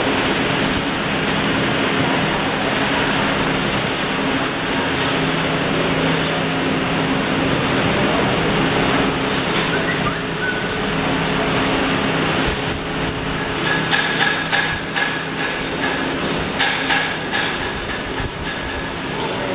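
Steady workshop machine hum and hiss, with repeated metallic clinks and knocks in the second half.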